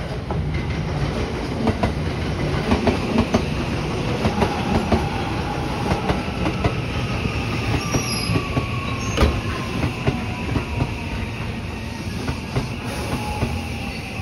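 Electric train running on the station tracks: wheels clacking over rail joints, with a thin whine that slowly falls in pitch over the second half.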